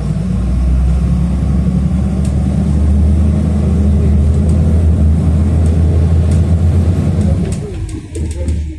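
City bus engine running loudly under load, heard from inside the cabin, easing off about seven and a half seconds in.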